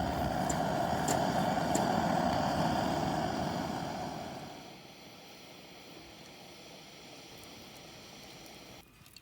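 Steady roaring hiss of a pressurised burner, with a few faint ticks. It dies away over about a second, a few seconds in, leaving a much quieter steady hiss.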